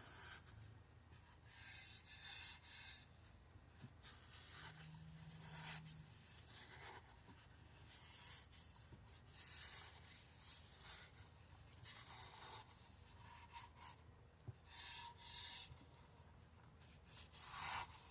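Faint, irregular rubbing strokes as a printed vinyl wrap is pushed around a tumbler by hand, its paper backing coming away as it goes.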